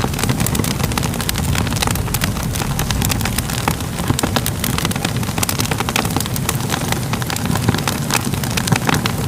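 Crackling fire: a steady low rumble of burning with many irregular sharp pops and crackles.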